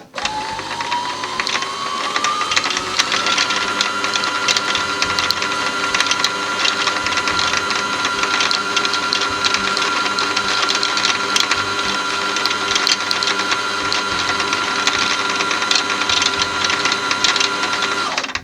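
Brother CS-6000i sewing machine winding a bobbin at full speed. Its motor whine rises in pitch over the first three seconds or so, then holds steady over a dense mechanical rattle, and stops just before the end.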